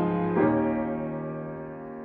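Solo piano playing a slow hymn accompaniment with no voice: a chord is struck about half a second in and left to ring, fading away.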